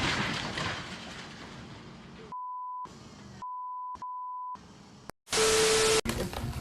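Three short bleeps of a single steady high tone, each about half a second, dubbed in with the original sound cut out around them. A rushing noise fades beforehand, and near the end a loud burst of hiss lasting under a second comes in with a steady low hum beneath it.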